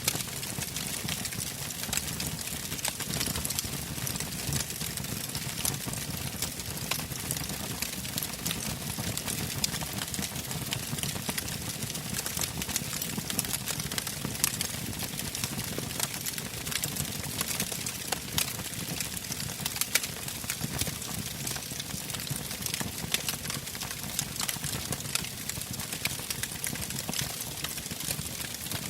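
Wood fire burning in a fireplace, crackling with frequent small pops over a low, steady rumble of flames.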